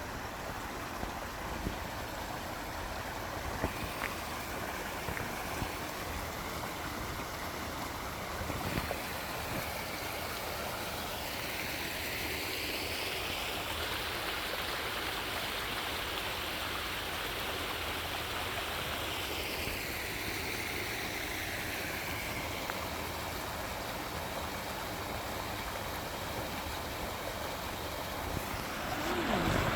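Floodwater rushing along a flooded road and gully, a steady running-water noise that swells louder and brighter in the middle, then settles again.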